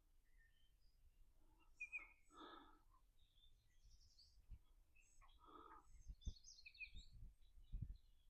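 Near silence outdoors, with scattered short bird chirps throughout and two faint breaths. A few soft low bumps come in the second half.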